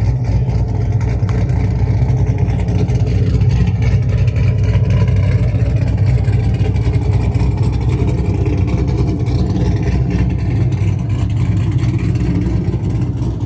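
Cammed Camaro SS V8 running with a steady, loud low rumble from the exhaust.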